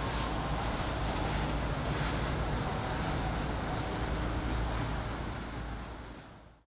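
Passing boats' engines and water wash, with wind buffeting the microphone. The sound fades out quickly near the end.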